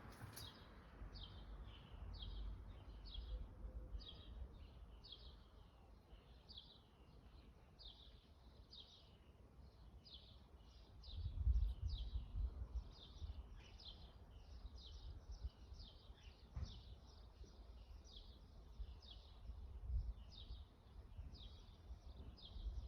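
A bird calling over and over with a short, high, falling note, about two a second, against a low rumble that swells about eleven seconds in.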